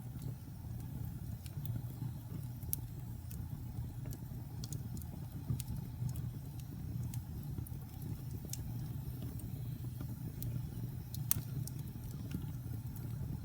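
Wood fire burning in a fireplace: a steady low rumble of flames with scattered sharp crackles and pops, a few of them louder, including one strong pop near the end.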